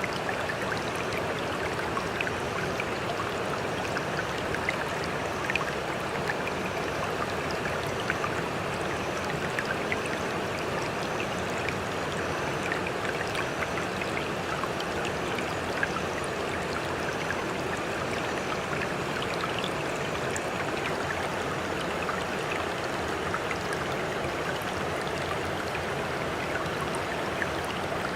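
Moving water in a steady, even rush, sprinkled with small ticks of droplets and splashes.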